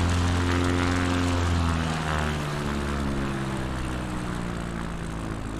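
Electric motor and propeller of a small RC plane, converted from a cheap foam glider, droning steadily; its pitch and level drop about two seconds in, then hold at the lower pitch.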